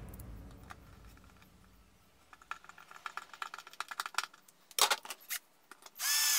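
Background music fading out, then a quick run of light clicks and taps with a brief louder clatter near the end.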